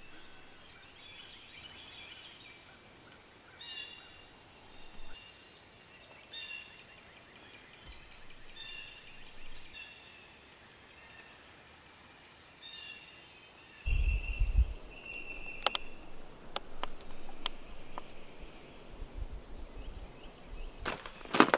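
Songbirds calling in woodland, short chirps repeated every second or two. About two-thirds of the way through, a low rumble and a series of sharp clicks join in.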